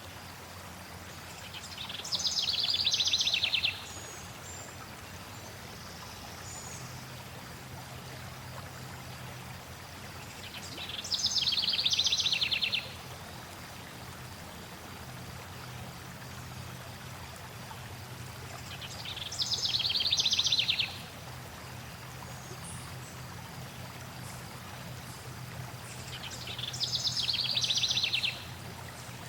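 Steady flowing water with a songbird's fast trilled phrase over it. The phrase lasts about two seconds, swells and ends abruptly, and comes four times, about eight seconds apart.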